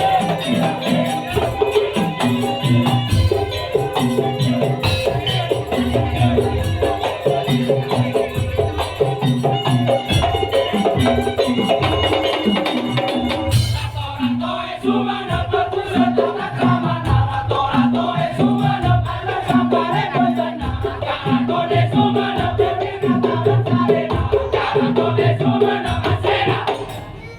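Madurese daul (tong-tong) percussion ensemble playing a rhythmic arrangement: a steady repeating pattern of low pitched drum and gong strokes. The high jingling layer drops out about halfway through, and the rest of the ensemble plays on.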